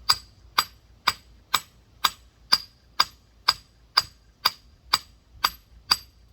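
Rock hammer striking a large geode in a steady rhythm of sharp metallic taps, about two a second, chipping around the stone to crack it open.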